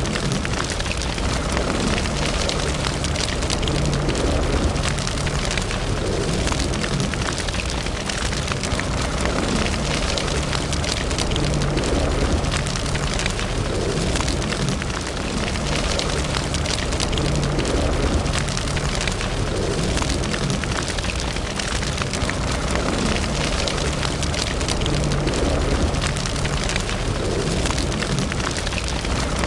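Fireplace fire burning steadily, crackling with many small pops over a low rumble of flames.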